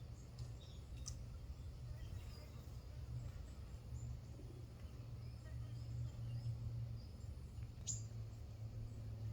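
Faint, short high calls of tits, small songbirds, over a steady low hum, with two brief sharp ticks, one about a second in and one near the end.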